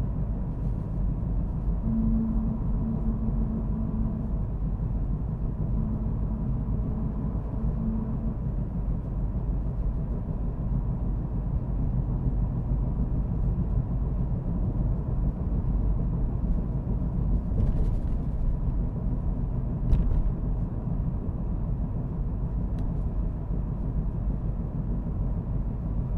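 Car driving at steady speed: an even low rumble of engine and tyres on the road, with a single sharp knock about twenty seconds in.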